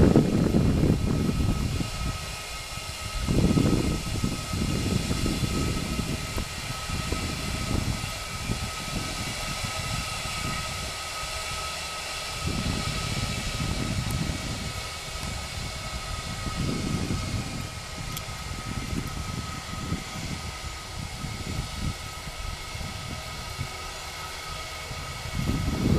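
Airbus A319 jet engines running with a steady high whine. Irregular low gusts of wind rumble on the microphone.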